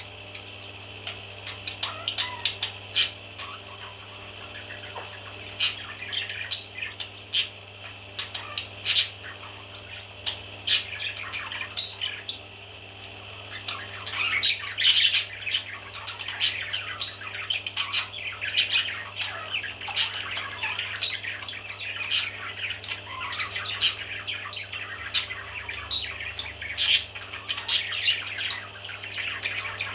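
Baby parrots squawking and chirping: many short, sharp calls come throughout and grow busier about halfway through. A faint steady low hum runs underneath.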